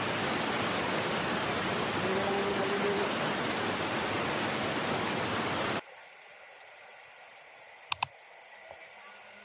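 Steady rushing of a waterfall that cuts off abruptly about six seconds in, leaving a faint background. A quick double click follows near the end.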